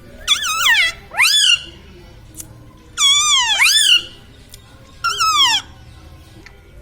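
Pet parrot giving four loud, shrill calls with wavering, swooping pitch. The third is the longest, at about a second.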